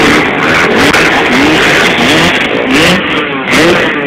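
Motocross motorcycle engines revving hard and loud, the pitch climbing and dropping again and again.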